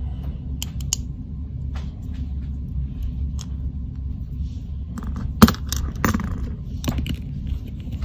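Small clicks and taps of a die-cast toy car's metal base and plastic parts being handled and pressed together, with a few sharper clicks in the second half, the loudest just past halfway. A steady low hum runs underneath.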